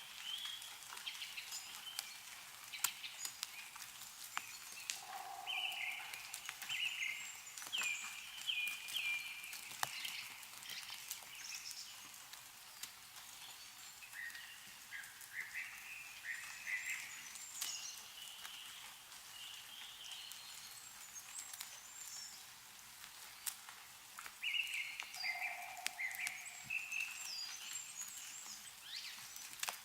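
Meltwater dripping from snow-laden trees in scattered, irregular drops, with songbirds calling in short, repeated chirping phrases that come and go in several spells.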